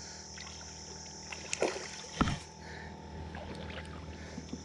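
Kayak on the water with faint sloshing and a steady high hiss, and one dull thump a little over two seconds in, the loudest sound, as a hooked smallmouth bass is played from the boat.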